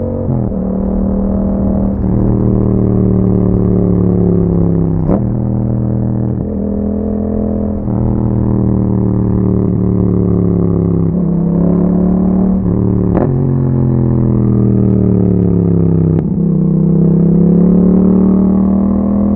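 A 2021 Yamaha MT-07's parallel-twin engine, breathing through an Akrapovic exhaust, on the move. Its pitch rises and falls with the throttle. Sharp clicks and sudden steps in pitch come about five, thirteen and sixteen seconds in.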